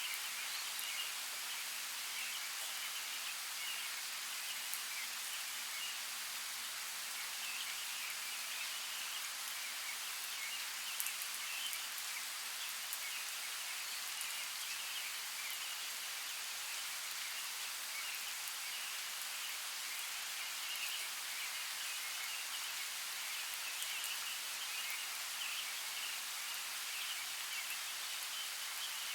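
Steady rain: an even hiss of rainfall with scattered drop ticks, one a little louder about eleven seconds in.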